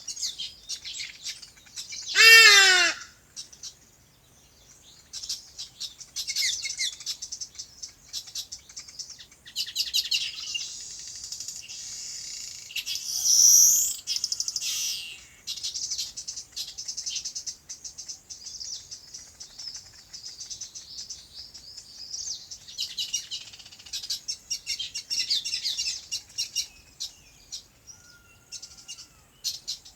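Many small birds chirping and twittering in a dense, overlapping chorus. About two seconds in, one loud, short call falls in pitch, and a brief louder burst of chirping comes about halfway through.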